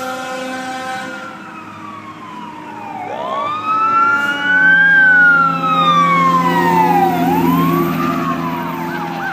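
Emergency vehicle siren wailing in slow rising and falling sweeps, getting louder about four seconds in as it comes close, with a steady engine hum beneath. Near the end it switches to a fast yelp.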